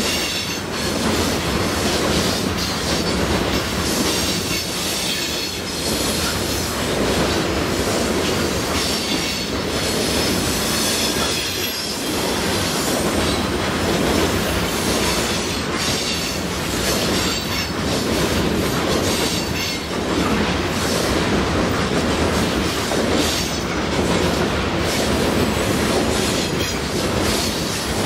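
Canadian National ore train's cars rolling past, a steady rumble and clatter of wheels on rail with a faint high squeal from the wheels.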